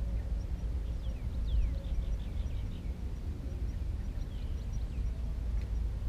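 Small birds chirping: short, high notes that slide downward, several in quick runs, over a steady low rumble that is the loudest sound.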